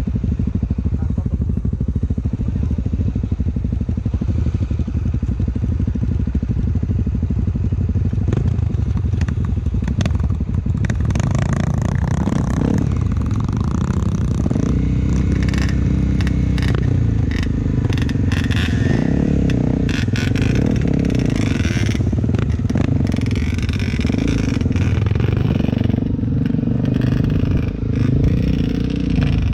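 Honda XR250 Tornado's single-cylinder four-stroke engine running under a rider on a trail: a steady note at first, then from about twelve seconds in revving up and down over and over, with clattering knocks.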